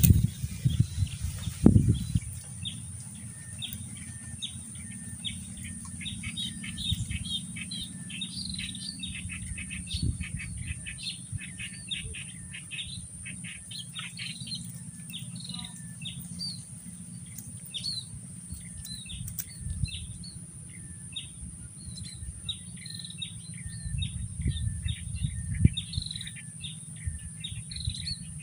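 Small birds chirping over and over in short, quick high notes, with a steady high-pitched drone underneath. A thump about two seconds in is the loudest sound.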